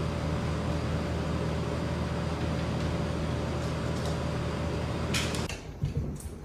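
Steady mechanical hum with a low drone that cuts off about five and a half seconds in, followed by a few faint knocks.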